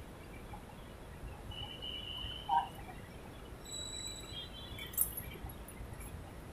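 A few short, high chirps from birds over a low, steady background rumble, with two brief louder sounds about two and a half and five seconds in.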